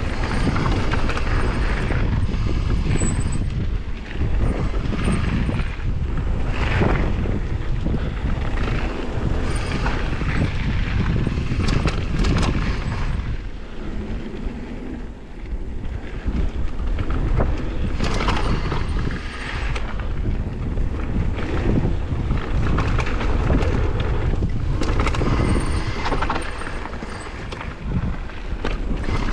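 Wind buffeting the microphone: a steady low rumble with gusty swells and dips.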